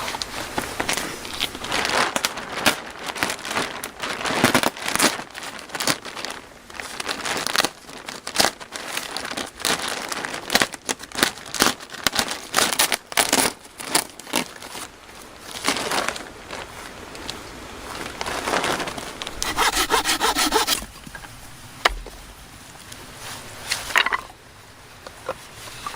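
Hand saw cutting through wood in quick back-and-forth strokes, with the rhythm broken by pauses. A brief pitched sound about three quarters of the way through, and a few last strokes near the end.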